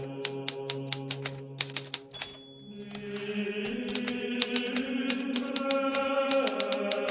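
Hermes Baby portable typewriter being typed on, keys striking in quick runs. About two seconds in the typing pauses with a short high ringing tone, then starts again. Background music of sustained tones plays throughout.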